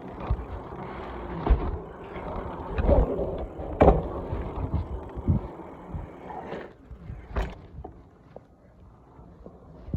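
Bicycle being ridden: tyre and road rumble with several sharp knocks and rattles, quieter over the last few seconds.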